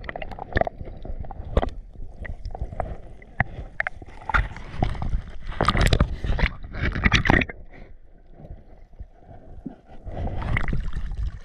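Water sloshing and splashing close to the microphone, with scattered knocks and clicks; the splashing is louder in stretches from about four to seven seconds in and again near the end.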